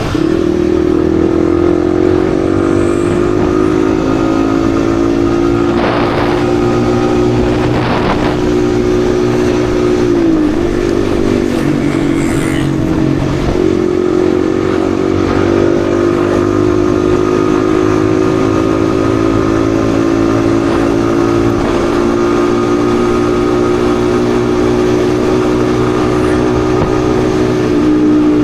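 Yamaha XSR155's single-cylinder engine running steadily under way, heard over wind and road noise. The engine note dips briefly about ten seconds in, then settles back. Two short whooshes come around six and eight seconds in.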